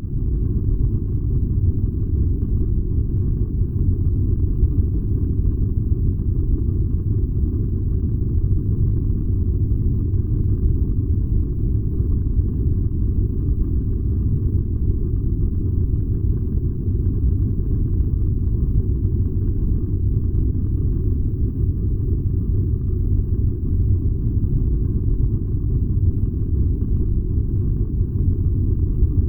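A furnace burning with a steady, deep rumble that holds even throughout.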